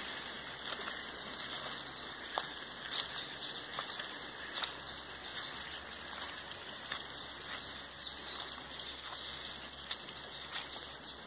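Birds chirping: many short, high calls over a steady high hiss, with a few soft clicks.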